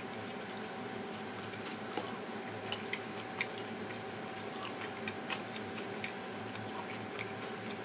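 Faint, irregular small clicks and mouth sounds of someone chewing food, over a steady room hum with a thin constant tone.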